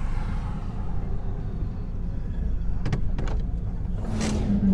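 A car driving, with a steady low engine and road rumble. A few sharp clicks come about three seconds in. Near the end a hiss swells and fades, and a louder engine note comes in.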